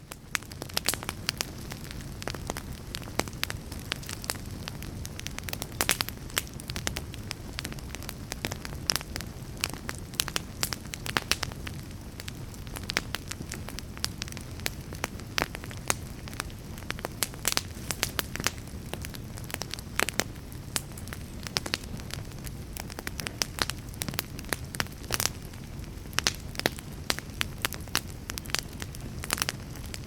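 Fire crackling: frequent sharp pops and snaps over a steady low rumble of the burning flames.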